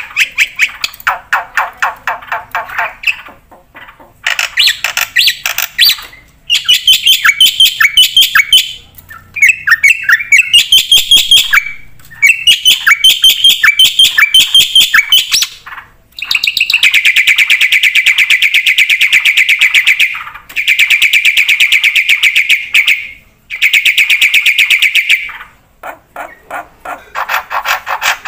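Black-winged starling (jalak putih) singing at length: bursts of fast, repeated chattering notes with short pauses, then several long, rapid trills of a few seconds each in the second half.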